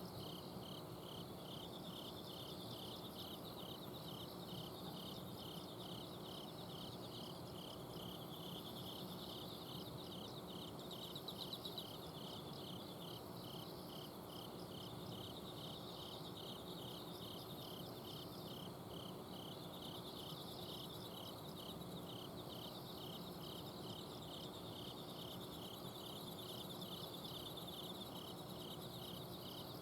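A chorus of autumn crickets and other night insects, one chirping steadily about twice a second over fainter trills higher up. Under it runs a steady low hum from an air-conditioner outdoor unit.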